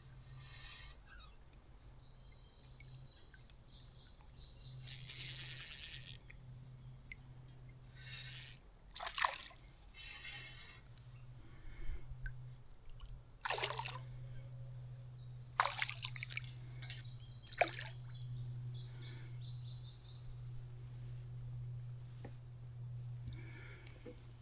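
Crickets keeping up a steady high chirring by the creek, with a few short water splashes and drips scattered through it.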